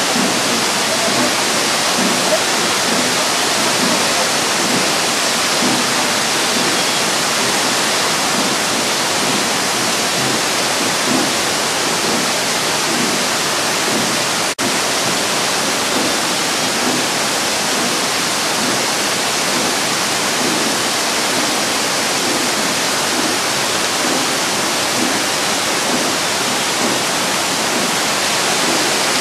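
Waterfall rushing steadily and loudly, with one brief dropout about halfway through.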